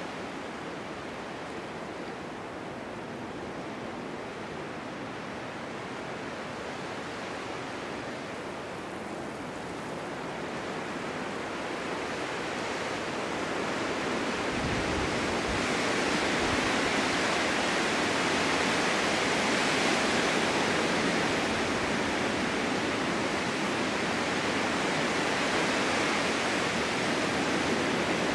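Snowstorm wind blowing hard, a steady rushing noise that builds into a stronger, brighter gust about halfway through and stays strong.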